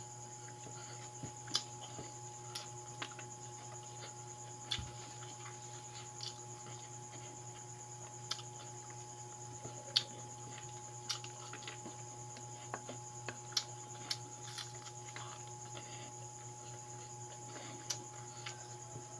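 Close-up mouth sounds of a person chewing pancit noodles and fried dried fish: irregular soft clicks and smacks about once a second, over a steady hum.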